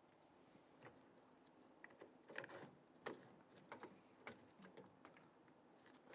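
Faint, scattered light clicks and taps of small plastic parts being handled: a lock cable end and its retainer clip being fitted on a car door lock actuator.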